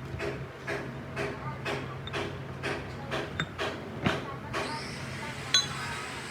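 Rhythmic scraping strokes, about two a second, over a steady low hum, like hand work on a metal part. The strokes stop after about four seconds, a rushing noise rises, and a single sharp metallic click follows near the end.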